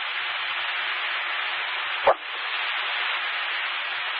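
Two-way fire radio channel picked up by a scanner, open with no one talking: a steady hiss of static, broken by one short burst about two seconds in.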